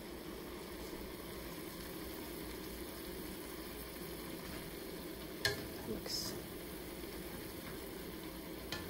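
Shredded purple cabbage sizzling steadily as it sautés in a stainless steel skillet. It is stirred with a wooden spatula, which knocks sharply against the pan about three times in the second half.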